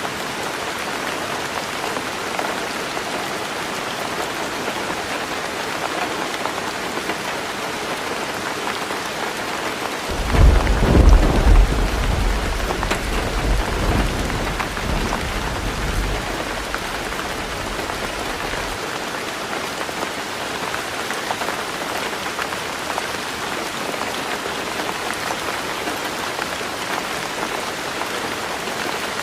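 Heavy rain drumming steadily on a tin roof. About ten seconds in, a thunderclap breaks in with a loud low rumble that peaks within a couple of seconds, then rolls on and dies away several seconds later.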